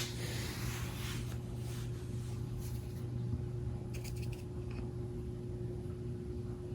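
A steady low mechanical hum, with a few faint clicks about four seconds in.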